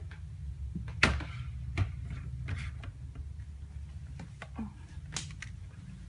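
Irregular light clicks and knocks, the sharpest about a second in, over a steady low hum.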